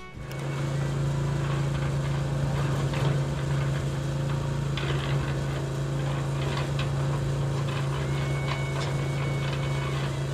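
A small motor running steadily with a low hum, with scattered clicks and rattles over it.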